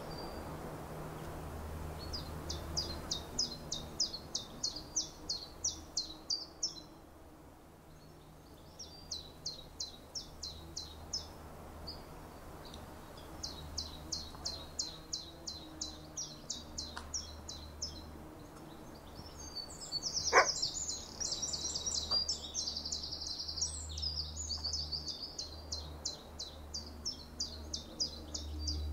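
A small bird chirping in quick series of short high notes, three or four a second, in phrases of a few seconds, with a faster chattering stretch about two-thirds through. A steady low hum runs underneath, and a single sharp click comes just as the chattering starts.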